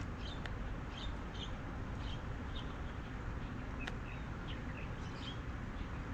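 Small birds chirping in short, repeated notes over a steady background hiss.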